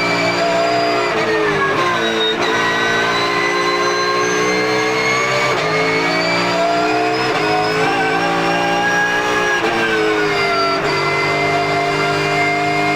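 Porsche GT3 Cup race car's 4.0-litre flat-six engine heard onboard, pitch dropping in quick steps on downshifts about a second in, then climbing again under acceleration, holding high, and falling once more near the end.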